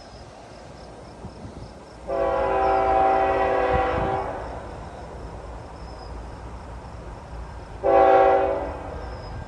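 CN GE GEVO locomotive's Nathan K5HL five-chime air horn sounding a long blast of about two seconds, then a short blast near the end, over the low rumble of the approaching train.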